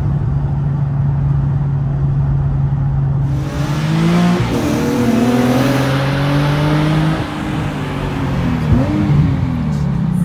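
Car engine running at a steady drone, then revving up and down from about three seconds in, joined by a loud hiss.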